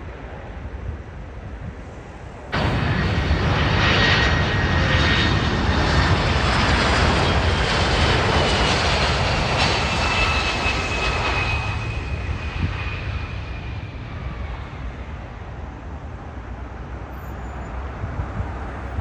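Jet airliner passing close on its landing approach: the engine noise starts abruptly a couple of seconds in, loud, and its whine falls in pitch as the aircraft goes by, then fades away.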